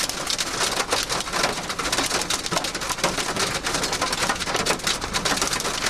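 Hail pelting a car's roof and body in a dense barrage, many sharp hits a second over a steady rush, heard from inside the car with its back window broken out.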